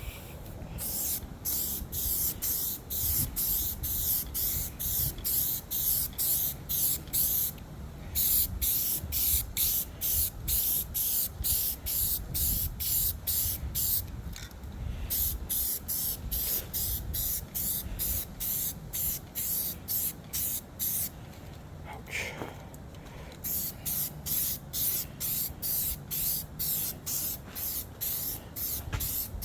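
Aerosol spray paint can spraying in short hissing bursts, about two a second, with a few brief pauses, as a coat of paint is laid on.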